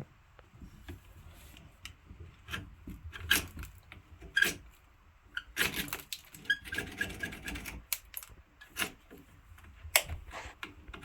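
Irregular clicks and knocks of metal tools and battery terminal hardware being handled. About halfway through comes a couple of seconds of scraping and rubbing, as corroded lead-acid battery terminals are worked on and cleaned.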